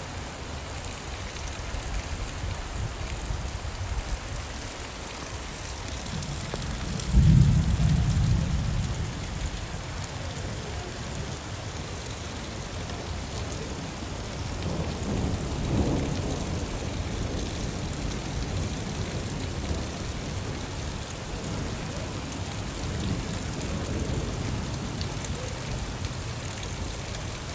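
Steady rain falling, with thunder: a loud, sudden thunderclap about seven seconds in that rumbles away over a couple of seconds, and a softer rumble of thunder around the middle.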